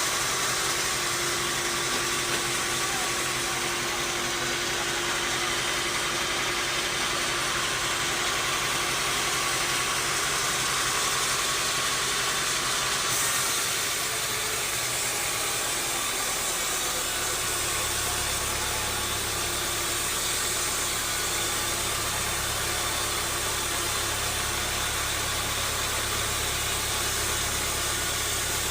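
Sawmill machinery running with a steady mechanical noise; a deeper low hum joins in about two-thirds of the way through.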